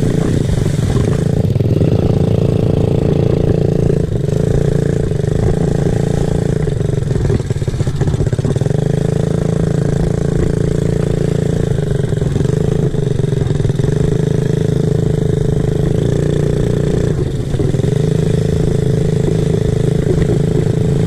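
Small-displacement dirt bike engine running steadily, its revs easing off briefly twice.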